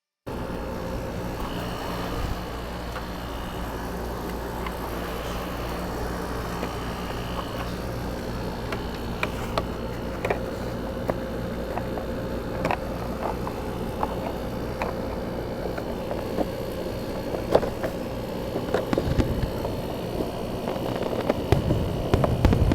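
A steady mechanical hum from a running motor or machine, with scattered light clicks and knocks. The hum fades out near the end as heavier knocks and handling noises take over.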